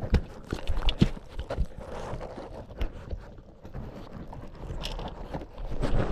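A series of irregular thuds and knocks, with wind noise building near the end.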